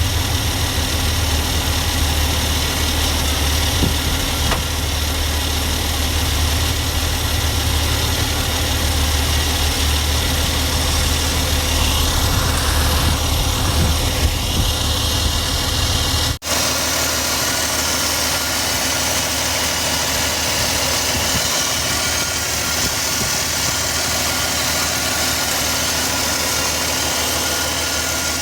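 Ford 300 inline-six engine idling steadily and smoothly, now that the vacuum leak at a worn gasket has been sealed. About halfway through there is a brief break, after which the sound continues with much less low rumble.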